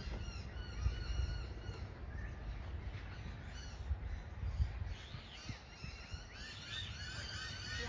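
Many birds chirping and calling at once, a dense chatter of short, arched, overlapping calls, over a steady low rumble.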